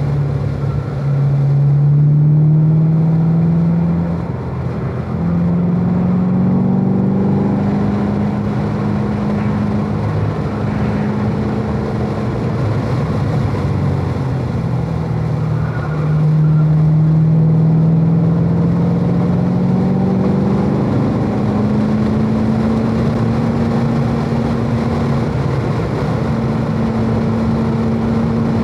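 Chevrolet Corvette V8 engine heard from inside the car, pulling in fourth gear at part throttle. The pitch rises as the car accelerates out of the corners, drops briefly where the driver lifts about 4 and 15 seconds in, and holds steady through the last few seconds.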